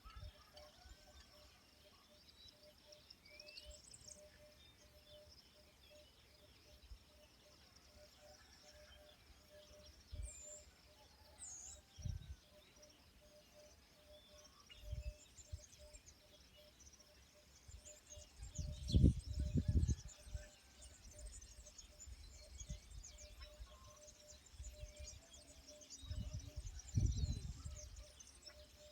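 Birds chirping, with short scattered calls and whistled glides, over a steady outdoor background. Low rumbles come in twice, loudest about two-thirds of the way in and again near the end.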